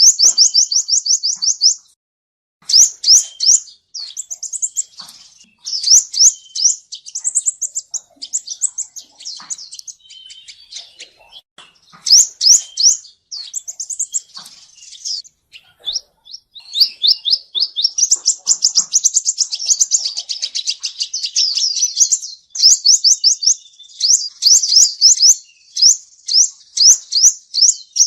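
Male sunbird (the 'seven-colour sunbird' of Vietnamese bird-keepers) singing: high, very fast trills of thin notes in repeated bursts, with a couple of brief pauses. The song of the male, as used as a lure call for trapping.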